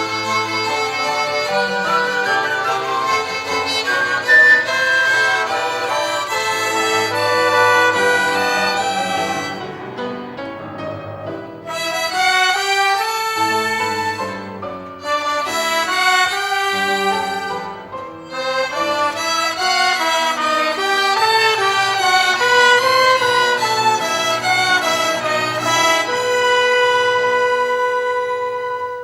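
A violin ensemble playing a slow hymn melody in sustained bowed phrases, with brief pauses between phrases and a long held chord near the end.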